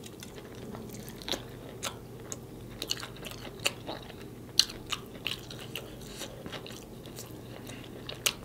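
A mouthful of fried chicken being chewed: irregular crunches and wet mouth clicks, a few sharper crunches standing out.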